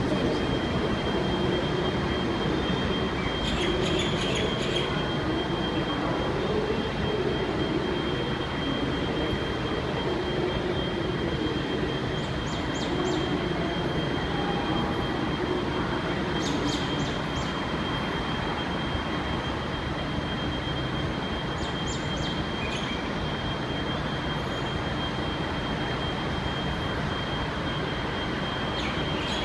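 V/Line N-class diesel-hauled passenger train moving out of the station, with steady engine and rail noise, a thin high wheel squeal and a few sharp metallic clicks.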